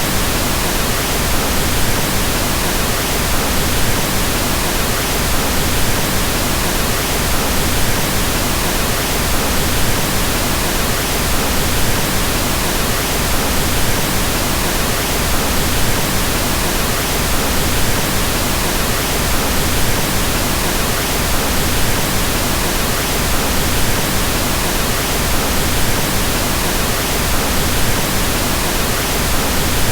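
Steady pink noise: an even, unchanging hiss across all pitches, weighted toward the low end.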